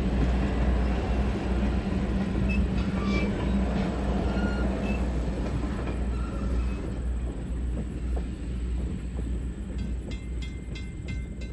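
Strasburg Railroad passenger coaches rolling past at low speed: a steady rumble of wheels on rail. The sound thins out as the last car passes, with a few light clicks near the end.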